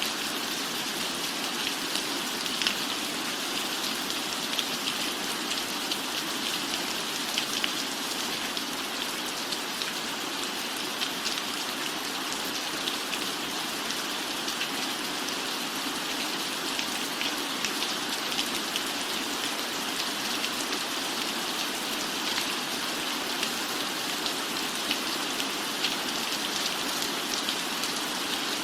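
Steady rain falling on a roof, an even hiss with scattered drop ticks.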